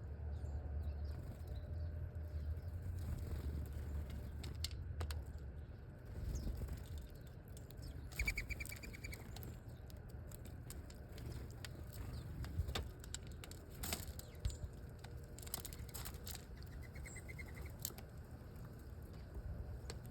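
Small wild birds in a yard: scattered wing flutters and light taps, with two short high chirping trills, about eight seconds in and again later. A low rumble fills the first few seconds.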